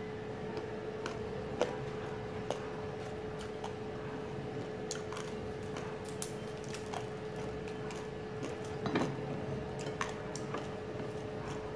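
Close-up chewing of crispy fried pork: irregular crunches and mouth clicks, a few louder than the rest, over a steady hum.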